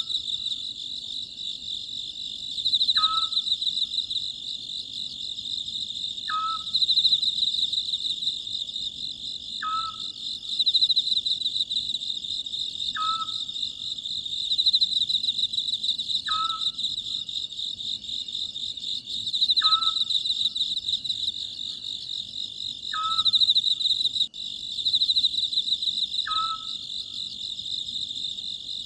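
Oriental scops owl calling, a short falling note repeated about every three seconds, over a steady chorus of trilling crickets.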